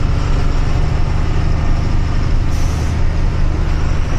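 Truck engine running steadily under way, a deep even drone, with a short hiss about two and a half seconds in.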